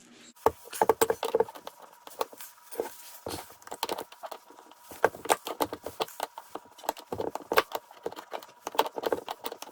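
Irregular clicks and clinks of hand tools on metal as a pressure washer pump's relief valve is worked loose, with a faint steady tone underneath.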